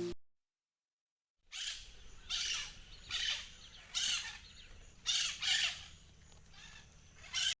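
A bird's calls played back: a run of about eight short, rough calls, roughly one every second or less, starting about a second and a half in.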